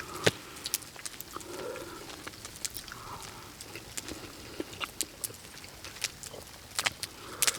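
Wood campfire crackling, with sharp pops coming at irregular intervals; the loudest come just after the start and near the end.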